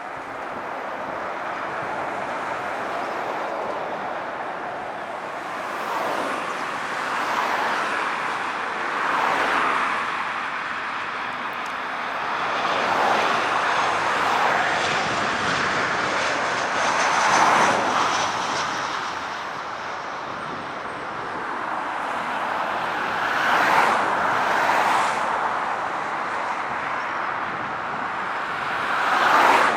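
Jet engines of a Boeing 737-700, its CFM56-7B turbofans, on landing approach: a continuous rushing noise that swells and eases every few seconds, with a faint high whine falling slightly in pitch around the middle.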